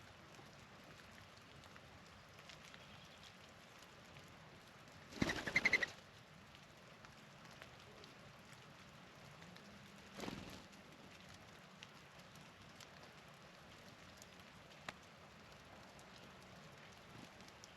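Steady hiss of falling precipitation. About five seconds in comes a brief, loud flurry of rapid wingbeats with a whistling flutter, a mourning dove taking off. A shorter falling swish follows about ten seconds in.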